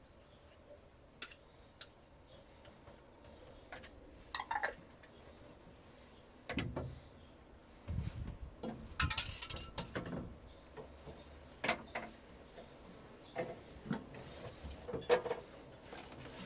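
Irregular metallic clinks, taps and knocks of hand tools and metal parts being handled, busiest in the middle of the stretch.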